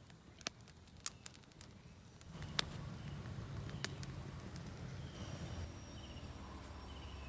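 Steady high-pitched insect chirring, louder from about two seconds in, with a few sharp clicks and snaps over it.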